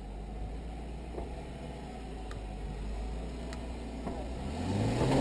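Off-road vehicle's engine idling low and steady, then revving up with a rising pitch near the end.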